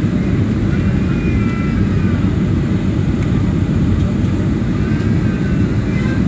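Airliner noise on approach to landing: a steady, loud low rumble of engines and airflow that holds even throughout.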